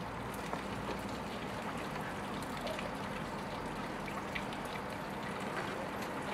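Steady rain falling and trickling, with scattered small drop ticks and a faint low hum underneath.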